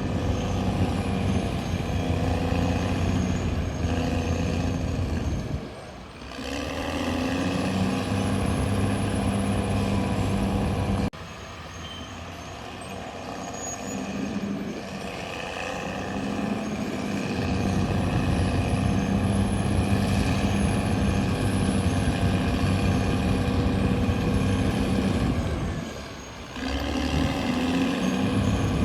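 Caterpillar D6R XL bulldozer's diesel engine running steadily under work. The sound drops off abruptly about eleven seconds in and comes back up, with shorter dips near six and twenty-six seconds.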